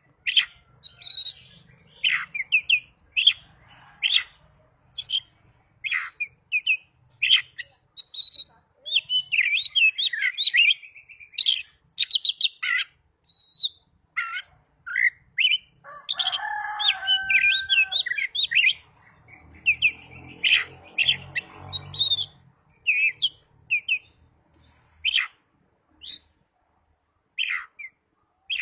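Oriental magpie-robin (kacer) singing a fast, varied song of short sharp whistles and chirps, with brief pauses between phrases. About two-thirds of the way through, a lower, longer two-pitched call cuts in for about two seconds.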